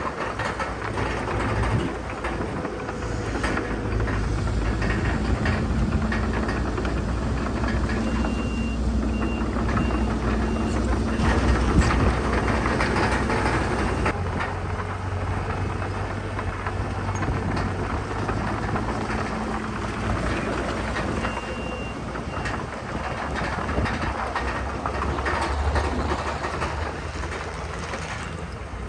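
Heavy diesel earthmoving machinery running steadily under load, with clanking and rattling over the low engine drone. A reversing alarm beeps in a run of short beeps about a third of the way in, and briefly again later on.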